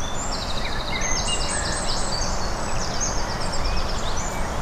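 Small songbird singing, quick high trilled phrases repeated over and over, above a steady low background rumble.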